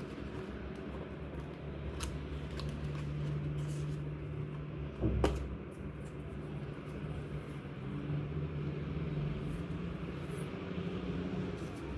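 Small objects handled on a tabletop: a few light clicks, then one sharper knock about five seconds in, over a steady low hum.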